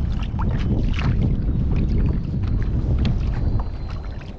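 Wind buffeting the microphone with a heavy rumble that eases off near the end, over small splashes of water against a kayak.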